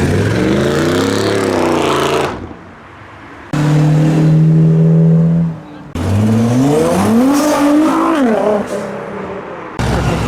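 Loud engines of muscle cars and hot rods revving as they pull away. One rev rises and falls, then a short quieter gap, then an engine held at a steady note, then another rev climbs and drops, with abrupt cuts from one car to the next.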